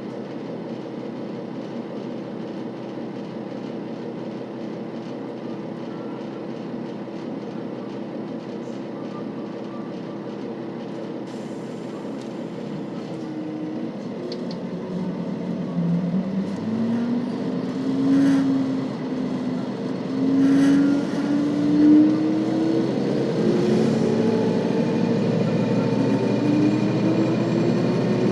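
KiHa 40 series diesel railcar's engine running at a steady low hum, then from about halfway through revving up as the railcar pulls away and accelerates, its pitch rising in steps.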